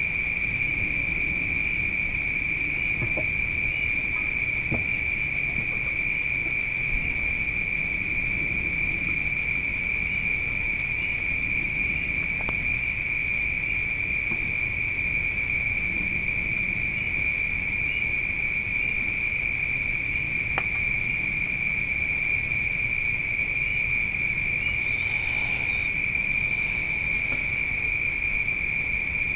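Crickets trilling continuously in a steady, high-pitched chorus, with a faint low rumble and a few soft clicks beneath.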